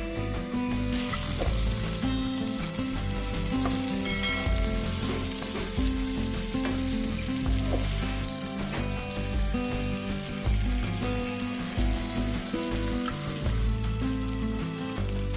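Food sizzling as it fries in a hot skillet, with a few sharp taps of a utensil against the pan.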